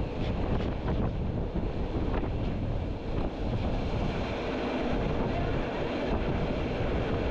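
Wind buffeting the microphone in an open observation carriage of a moving train, over a steady low rumble of the train running. A few light clicks in the first few seconds.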